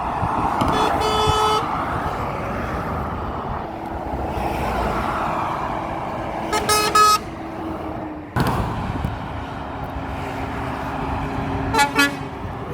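Passing trucks sounding their horns in three short blasts, the first about a second long near the start, one in the middle and a brief one near the end, over steady road traffic noise.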